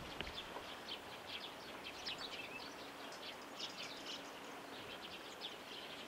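Birds chirping: many short, high-pitched chirps scattered throughout, over a steady faint hiss.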